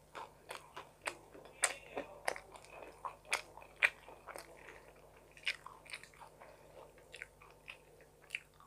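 Close-miked chewing of a mouthful of homemade pizza, with irregular sharp crunchy clicks, most frequent and loudest in the first half.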